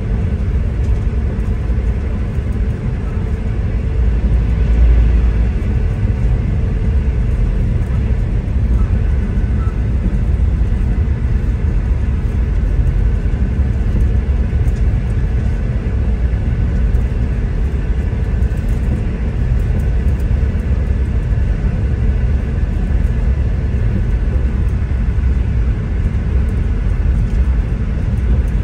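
V/Line diesel passenger train running along the track, heard from inside the carriage: a steady low rumble of engine and wheels on rail, slightly louder a few seconds in.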